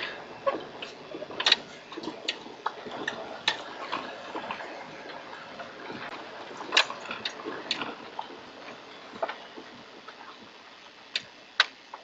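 Scattered, irregular sharp clicks and taps over a faint steady hiss.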